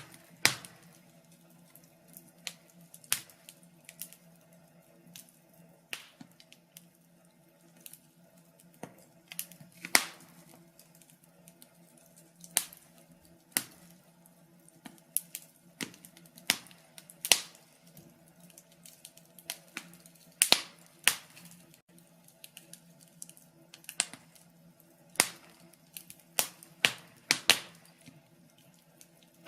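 Wood fire crackling in a fireplace: irregular sharp pops and snaps, some loud and some faint, over a faint steady low background.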